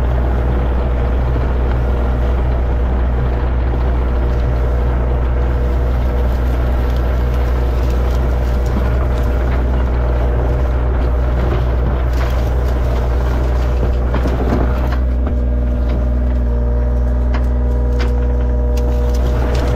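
Excavator's diesel engine running steadily with a constant low hum. About fifteen seconds in its tone steadies into a clearer pitch, and scattered clanks and knocks follow near the end.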